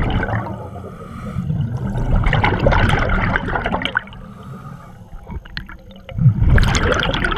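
Scuba diver breathing through a regulator underwater: exhaled bubbles gurgle out in surges, one around the middle and another near the end.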